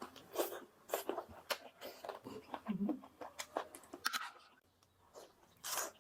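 Close-up chewing and crunching: a rapid run of short, sharp mouth clicks and crunches that thins out about four seconds in, with one short noisy burst near the end.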